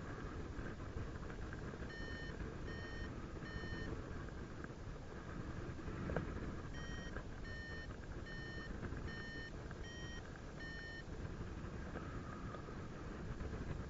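Paragliding variometer beeping: short high beeps about 0.8 s apart, three about 2 s in and a longer run of six from about 7 s, the pitch stepping slightly higher at times, which signals that the glider is climbing in lift. Steady wind rush on the microphone underneath.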